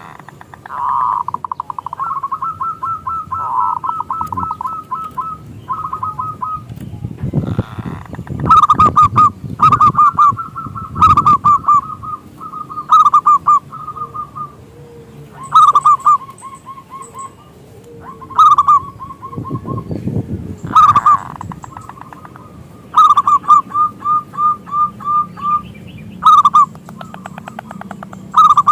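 Zebra dove (perkutut) cooing: repeated phrases of quick staccato coos, each opening with a louder note and running off in a rapid string, with short pauses between phrases.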